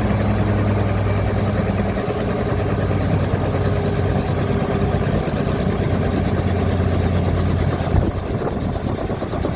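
Helicopter engine and rotor running steadily, with a fine, rapid even pulsing.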